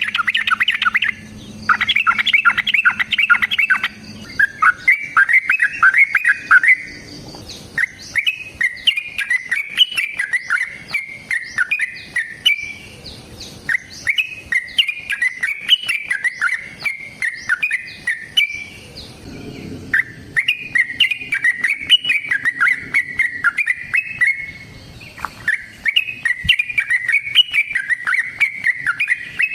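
Yellow-vented bulbul singing long, rapid chattering phrases of bright notes, one after another with short pauses between them.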